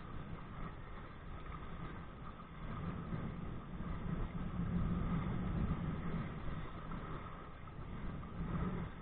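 Low, steady rumble of wind buffeting a body-worn camera on a kite kayak under way, mixed with water noise. It swells about three seconds in and eases near the end.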